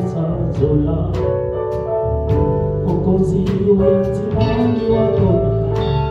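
Live worship music: sustained keyboard chords with a steady beat of percussion hits, and some singing over them.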